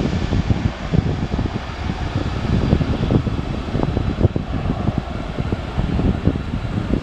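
Wind buffeting the microphone: a dense, irregular low rumble with constant fluttering gusts.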